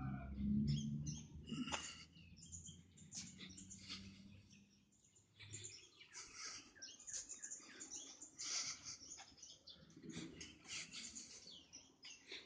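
Small birds chirping in short, scattered calls throughout. A low hum is loudest in the first second or so, then fades.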